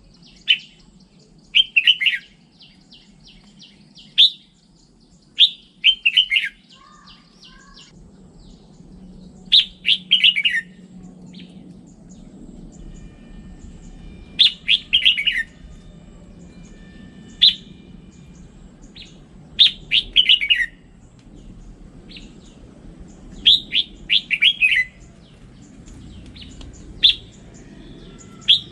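Red-whiskered bulbul singing: short, loud phrases of a few quick, falling notes, repeated every two to five seconds, with softer chirps in between.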